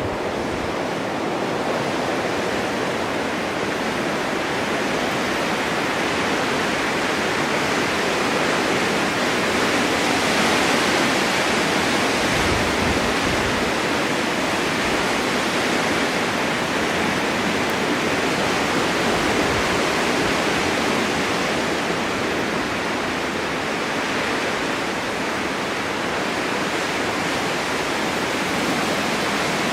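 Snowstorm wind ambience: a steady, dense rush of wind noise that swells slightly and eases off, with no gusting breaks.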